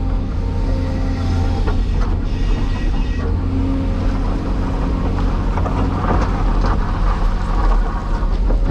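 Cat 336E excavator's diesel engine running steadily under work, a constant low drone, with a few short knocks and clunks from the machine.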